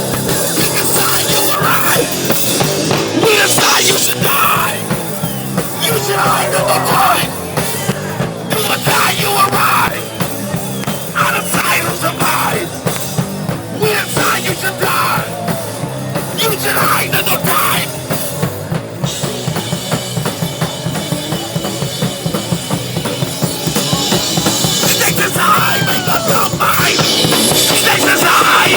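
Hardcore punk band playing live at full volume, with distorted guitars and pounding drums, heard from inside the mosh pit.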